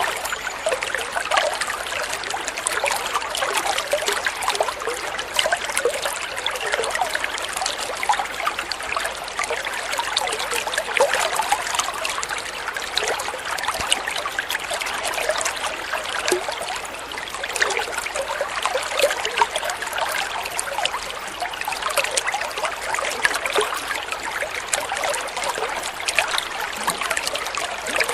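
Water flowing and trickling steadily, full of small splashing, gurgling notes.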